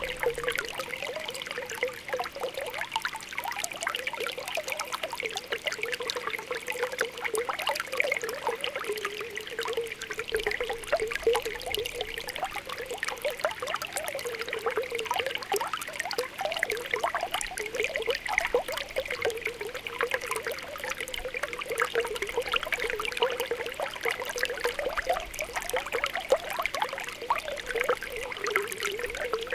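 Spring water welling up from the ground, with a continuous stream of small popping, gurgling bubbles over a steady trickle.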